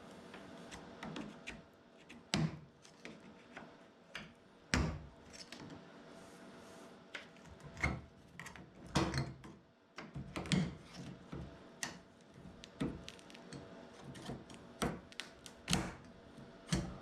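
Plastic exterior trim being pried off a car by hand, its clips and panel giving irregular sharp clicks, knocks and rattles.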